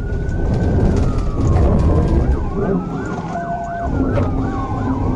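Police car siren wailing in slow rising and falling sweeps, switching to quicker up-and-down yelps in the middle, over the engine and road noise of the pursuing car.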